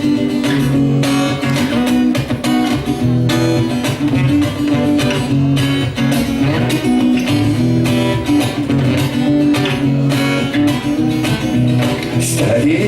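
Acoustic guitar strummed in a steady rhythm, an instrumental introduction before the singing comes in.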